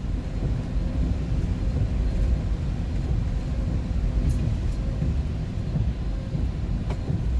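Steady low engine and road rumble heard from inside a moving vehicle's cab.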